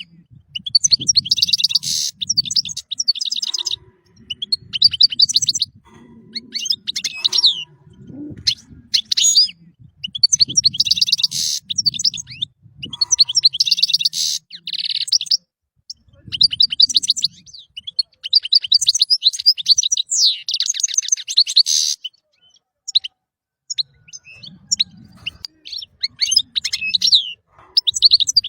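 European goldfinch singing: fast, high twittering phrases with rapid buzzy trills, coming in bursts of a second or two separated by short pauses, with a longer pause a little past the middle.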